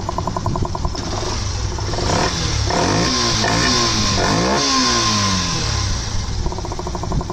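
Yamaha FZS's single-cylinder four-stroke engine breathing through an open K&N air filter in place of the stock airbox: idling, then revved in several quick throttle blips that rise and fall in pitch, then settling back to idle near the end.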